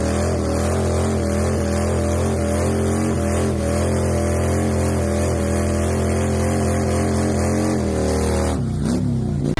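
Motorcycle engine held at steady revs, then the revs drop away about eight and a half seconds in.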